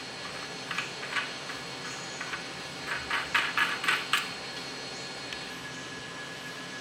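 Small metal parts or hand tools clinking and tapping against each other: a few light clicks about a second in, then a quick cluster of sharper clinks between about three and four seconds in, over a steady faint hum.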